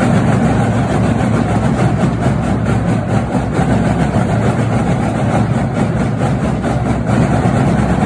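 Steady low rumble of a running vehicle, even and unbroken.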